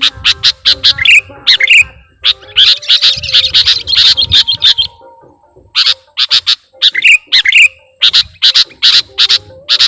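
Sooty-headed bulbul (kutilang) calling in loud, rapid runs of short, sharp chirps, several a second, breaking off for about a second midway. A faint steady high tone runs underneath.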